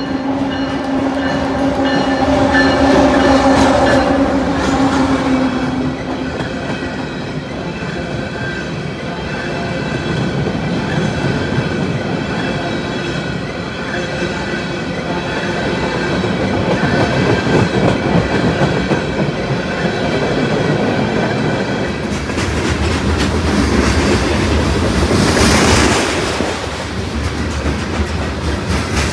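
A train passing close by: a steady rumble and clatter of wheels on the rails, with a low steady tone for the first few seconds and a faint high ring from the wheels through the middle. Near the end the sound swells sharply, then drops off suddenly.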